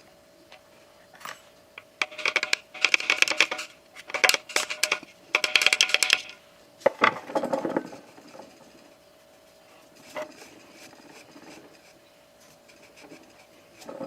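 Small metal parts clinking and rattling in several bursts of ringing clatter, then a duller scrape and knock about seven seconds in, over a faint steady hum.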